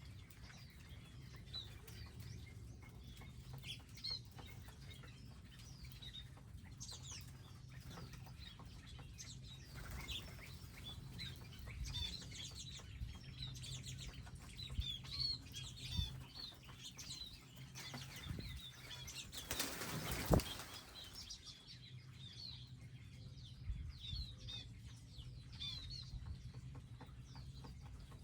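Small wild birds chirping and calling at a garden feeding area, with fluttering wings and a brief rushing burst about two-thirds of the way in. A low steady hum sits underneath.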